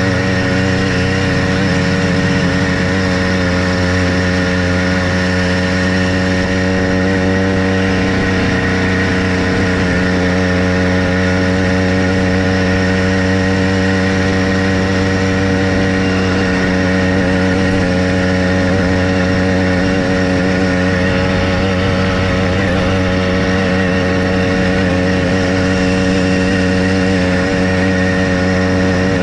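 Motorized bicycle's small engine running under way, holding a steady, even pitch.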